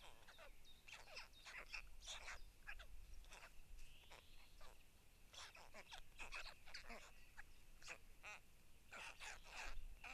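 Faint, scattered short bird chirps and calls, irregular, with one quick rattling series about eight seconds in, over a faint steady high tone.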